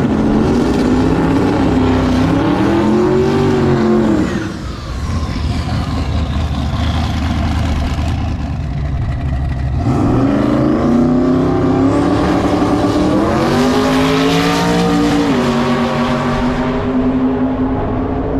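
Boosted drag-racing car engine revving hard in two spells: the revs climb and fall over the first few seconds, drop to a lower rumble, then about ten seconds in climb again in steps and hold high.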